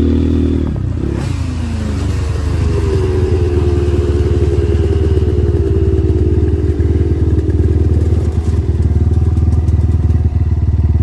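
KTM dirt bike engine running hard, with a knock about a second in as the revs drop, then holding a steady throttle.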